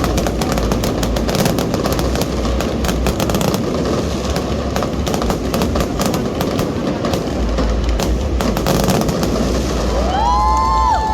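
Fireworks display going off in a dense, continuous crackle of many rapid bangs. A rising whistle sounds near the end.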